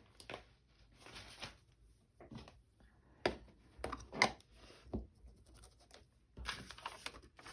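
Paper and craft supplies being handled on a work surface: rustling and scraping, with a few sharp taps or clicks around the middle.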